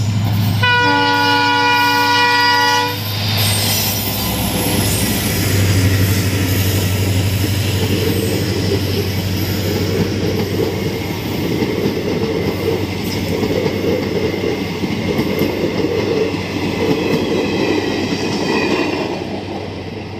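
Diesel locomotive horn sounding in a blast of about two seconds near the start, then a passenger train rolling past: steady engine hum and the coaches' wheels rumbling and clacking on the track.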